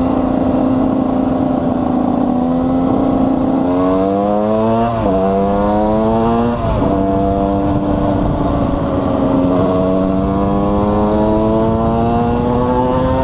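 KTM 125 EXC's single-cylinder two-stroke engine, ridden under way: it holds steady for a few seconds, then revs up and drops sharply twice as the rider shifts up, about five and about six and a half seconds in, and then pulls slowly higher again.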